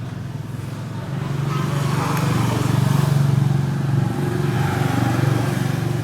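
A motor vehicle's engine running nearby, a steady low drone that swells about a second in and stays loud.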